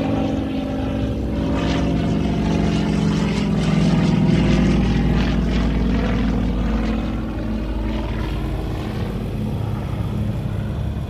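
A World War II warbird's radial piston engine and propeller passing low overhead on its landing approach, building to its loudest about four seconds in and then fading.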